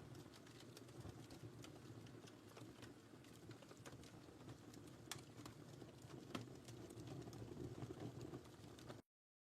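Wood fire crackling in a fireplace: a soft, steady low hiss with irregular small pops and snaps, two sharper ones about halfway through. The sound cuts off abruptly to silence near the end.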